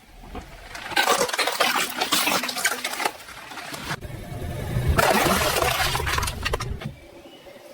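Car tyre rolling over and crushing crunchy objects: two stretches of dense crackling and crunching, one about a second in and another about five seconds in, over a low rumble.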